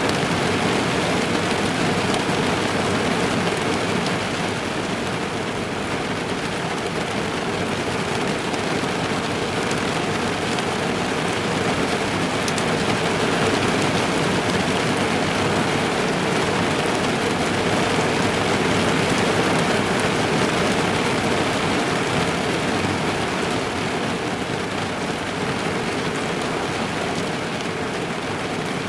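Heavy rain drumming steadily on a car's roof and windows, heard from inside the car.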